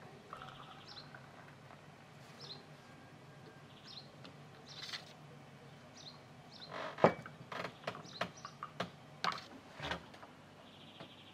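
Small birds chirping now and then, with a run of sharp clicks and knocks in the second half, the loudest about seven seconds in.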